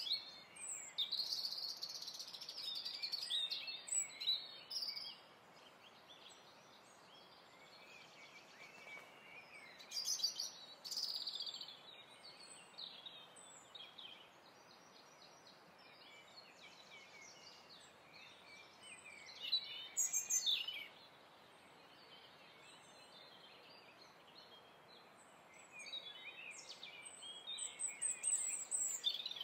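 Birds chirping in short bursts of a few seconds with quieter gaps between, over a steady faint hiss.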